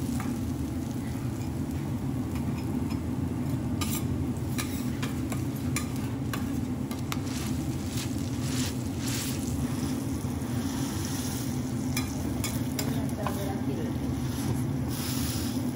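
Minced fat frying in oil on a teppanyaki griddle, sizzling steadily, while metal spatulas scrape and tap against the steel plate now and then, over a steady low hum.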